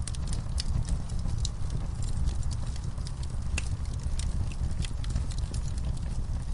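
Wood campfire in a fire pit burning, its logs and coals crackling and popping in irregular sharp snaps of varying loudness, over a steady low rumble.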